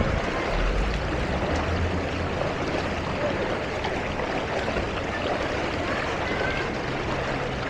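Steady wash of street noise in a flooded road: passing traffic and moving water, with a low engine hum in the first couple of seconds.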